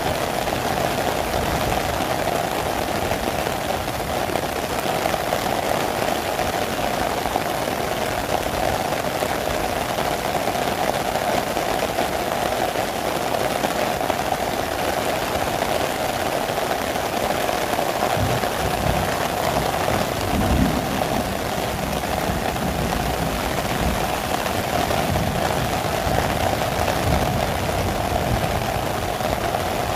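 Heavy rain drumming steadily on a clear plastic umbrella overhead, over the hiss of rain falling on paving and grass. A low rumble comes and goes during the last third.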